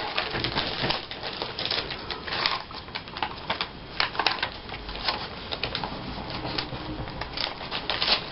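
Paper rustling and crinkling as magazine clippings and cut-out pictures are sorted through by hand, an irregular run of small crackles and ticks.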